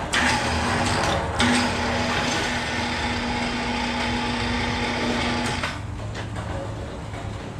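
A small motor or air tool running steadily with a hum and a hiss. It starts suddenly, stops for a moment about a second and a half in, then runs again until it cuts off about five and a half seconds in.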